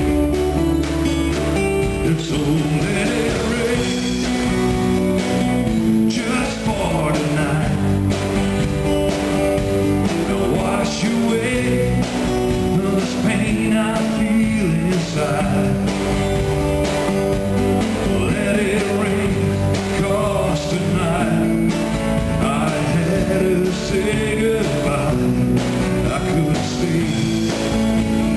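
A live country-rock band playing, led by guitars over a steady beat.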